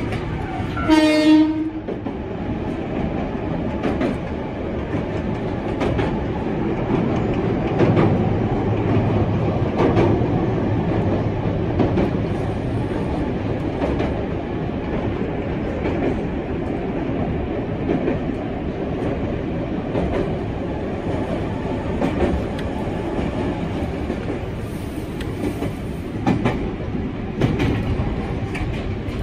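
Electric train running on the Ohmi Railway line, heard from the driver's cab: a short pitched horn blast about a second in, then steady running noise with clacks of the wheels over rail joints every second or two.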